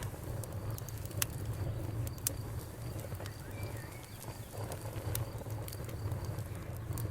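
Bonfire crackling: a steady low rumble of burning with sharp pops every second or so. Crickets chirp faintly in a fast, even pulse, heard mainly near the end.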